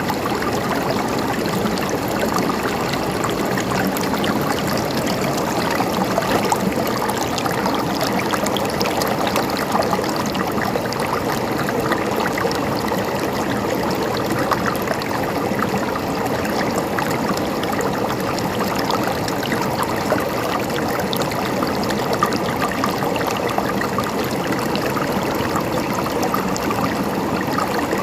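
A river flowing and gurgling steadily over stones, a constant rush of water with small splashes and trickles through it.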